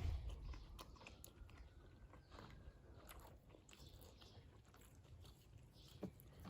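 Faint chewing of sausages, with scattered small clicks of mouth noise.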